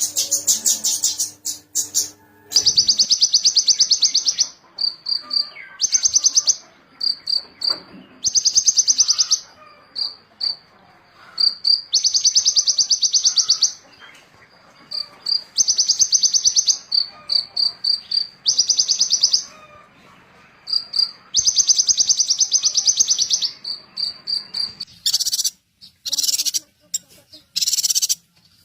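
A small songbird giving fast, buzzy trills high in pitch, each lasting one to two seconds, repeated about a dozen times with short single high notes in between.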